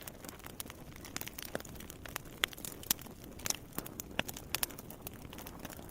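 Wood campfire crackling: irregular sharp snaps and pops of varying loudness over a low steady hiss.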